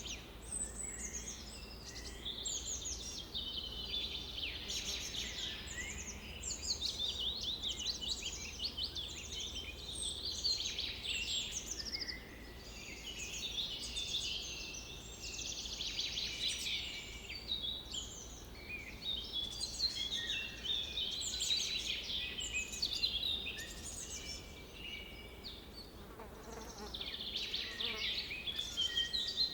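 Many birds singing at once around a lake: a dense, overlapping chorus of chirps and fast trills that swells and eases, over a faint low steady hum.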